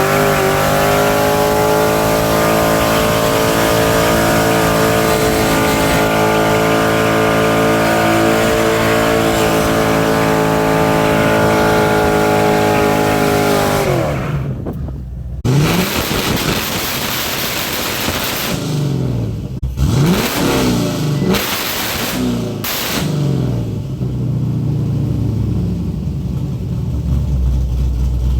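Car engine through a custom burnout exhaust, revved up and held at a steady high rpm on the two-step for about fourteen seconds. It then drops off, is blipped up and down several times, and settles to a low idle near the end.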